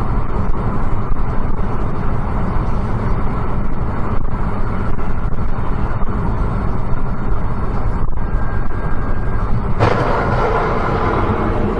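Steady engine and road rumble of a vehicle driving. Near the end it abruptly turns louder and brighter.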